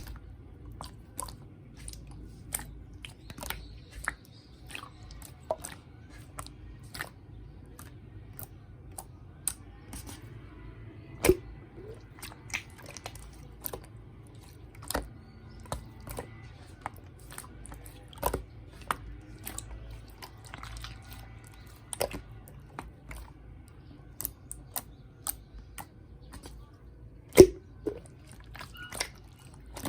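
Slime being pressed and squeezed by hand, giving irregular sharp clicks and pops, about one or two a second, with soft squishing between them. The loudest pops come about 11 seconds in and near the end.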